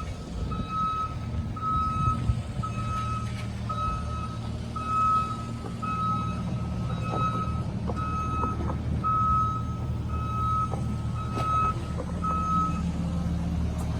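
Reversing alarm of a construction vehicle beeping steadily, just under two beeps a second, over the low running of its diesel engine; the beeping stops near the end.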